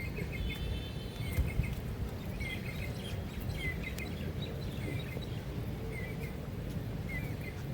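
A small bird chirping over and over, short chirps about once a second, over a steady low outdoor rumble.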